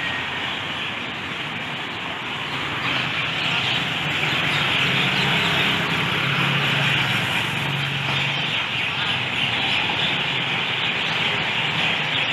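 Dense, continuous twittering of a large flock of city birds and bats, with a motor vehicle's engine hum passing in the middle.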